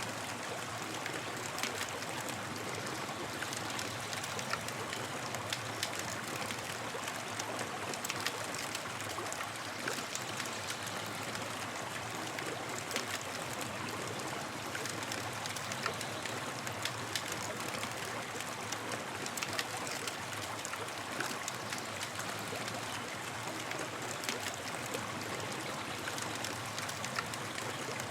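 Campfire burning: a steady rushing hiss dotted with many small sharp crackles and pops.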